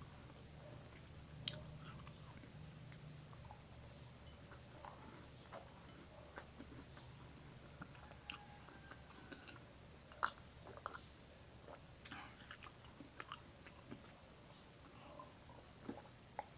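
Close-up chewing and biting of crunchy food, a scatter of faint crisp crunches and clicks over a low steady hum.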